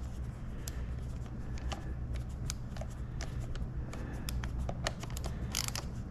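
Small irregular clicks and rattles from hands handling the plastic housing and parts of an opened joystick, with a few sharper clicks near the end, over a steady low hum.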